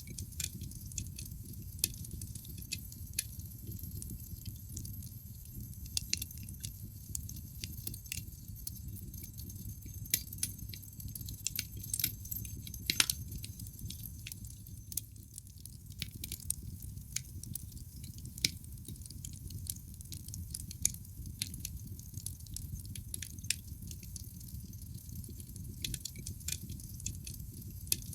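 Wood fire burning in a fireplace: irregular sharp crackles and pops from the burning logs over a steady low rumble of the flames, with a cluster of louder pops about midway.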